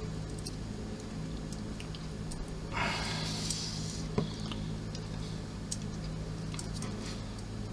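Small plastic model-kit parts being handled and pushed together: faint ticks and clicks, a short rustle about three seconds in, and one sharper click a second later, over a steady low hum.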